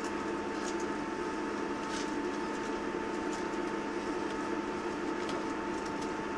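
Steady interior drone of a Class 159 diesel multiple unit, heard from the passenger saloon: an even rumble with a constant hum and a few faint ticks.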